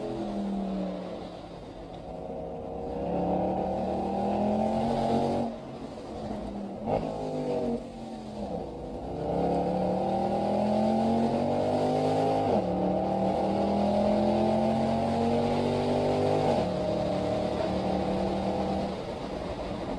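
Mercedes-AMG SL63's V8 heard from inside the cabin, pulling through the gears: the engine note climbs steadily in long pulls, and the pitch drops suddenly at each gear change, about three times. Near the end it settles to a steadier, lower note.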